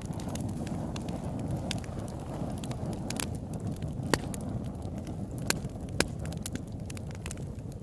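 Campfire burning: a steady low rush of flames with sharp crackles and pops of burning wood, a few louder pops scattered through.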